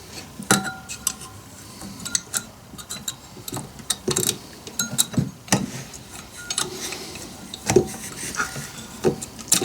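Irregular small metallic clicks and clinks, some with a brief ring, from hand tools and the piston's wrist pin and circlip being handled and pressed into place on a chainsaw piston.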